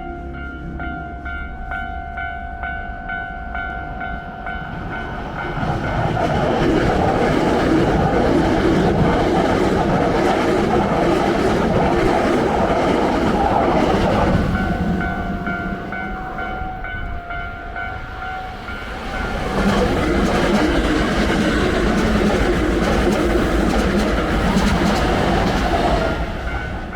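A railway level-crossing alarm rings with a steady, repeating electronic bell tone as two Hankyu Kyoto Line electric trains pass in turn. The first train's loud running noise begins about six seconds in and fades near the middle. The alarm is heard clearly again until the second train passes from about twenty seconds in to near the end.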